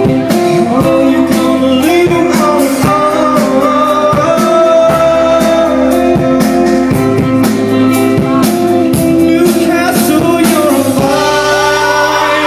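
Live band playing amplified through a venue sound system: singing over guitar chords and a steady drum beat.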